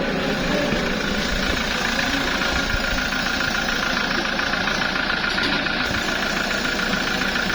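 Toyota Hilux Revo engine idling steadily. A newly fitted adjuster has cured the noise it used to make on the first start of the morning.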